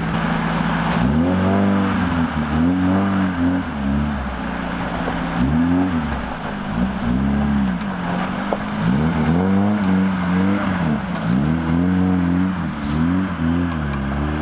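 Off-road car engine revving up and falling back again and again, about once every second or two, over a steady low drone.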